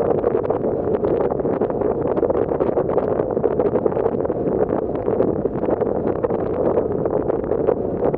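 Steady rushing noise aboard a moving passenger ferry, with wind buffeting the microphone over the boat's engine and water noise.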